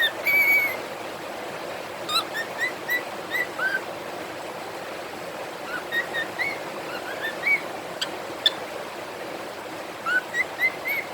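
Cockatiels whistling their song: phrases of short, rising whistled notes, several in quick succession, recurring every few seconds over a steady background hiss. Two sharp clicks about eight seconds in.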